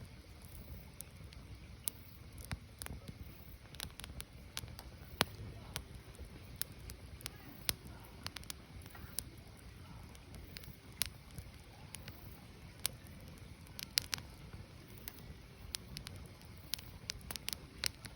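Burning firewood crackling: irregular sharp pops and snaps, a few louder than the rest, over a low steady rumble of the fire.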